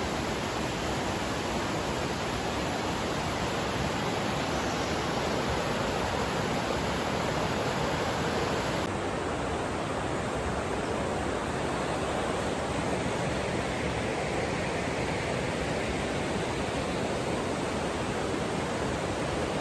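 Steady rush of flowing water, an even noise without tones, its upper range changing abruptly about nine seconds in.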